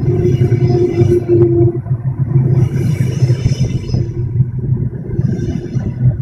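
Double-decker passenger train rolling past with a steady low rumble and hum, with bursts of rattling hiss about every two and a half seconds.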